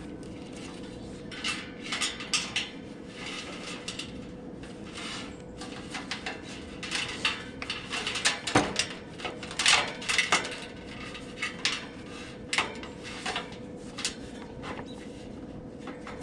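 Irregular metallic clinks, taps and rattles of hand tools and metal parts being handled while a heat pump condenser fan motor is worked on, busiest in the middle. A faint steady hum runs underneath.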